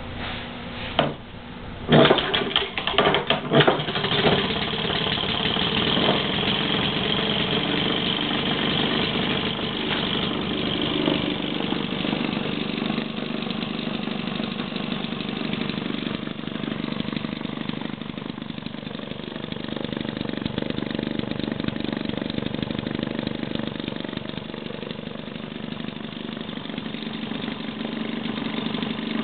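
1941 Maytag Model 72 twin-cylinder two-stroke engine starting: a single click about a second in, then it fires with a run of loud pops about two seconds in and settles into steady running.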